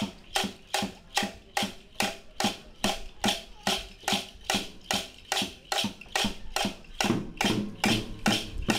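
A steady percussive beat, about two and a half strikes a second, with a faint pitched sound between the strikes.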